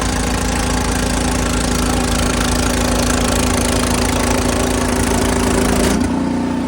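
Ariens snow blower's single-cylinder engine running steadily under a loud rushing noise. About six seconds in the rushing drops away suddenly while the engine keeps running.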